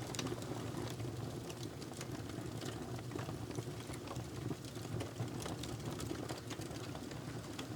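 Wood fire burning in a fireplace: a steady low rumble of the flames with scattered crackles and pops.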